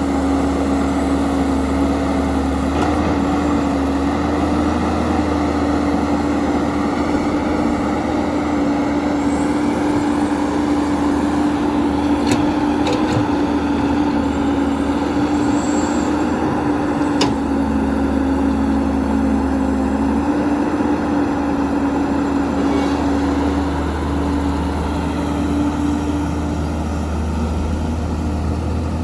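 Heavy diesel engine of earth-moving machinery running steadily, with a few sharp clicks or knocks near the middle.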